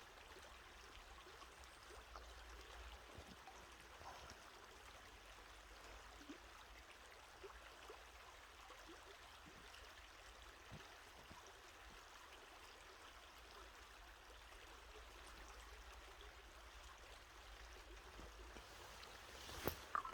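Faint, steady running water of a small stream. A brief knock near the end.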